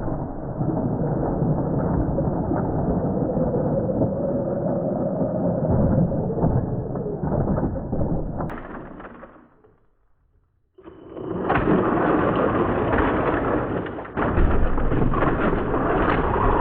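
Remote-control monster truck running, with a steady motor whine and the clatter of it driving and crashing into Lego. The sound comes in two stretches with about a second of silence between them.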